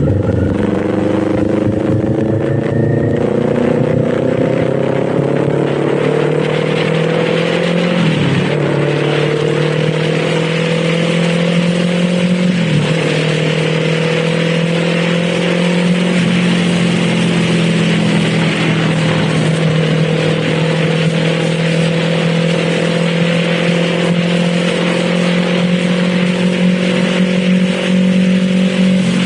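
Kawasaki Z400's parallel-twin engine pulling under way, its pitch climbing slowly, with two quick upshifts about eight and twelve-and-a-half seconds in, then holding a steady cruise. Wind and road noise run underneath.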